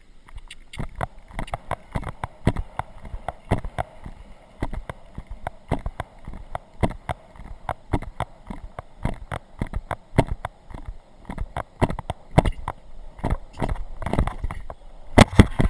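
Horse hoofbeats at a canter, a quick run of knocks and thuds picked up by a camera riding along, starting just under a second in, with the loudest cluster of thuds near the end.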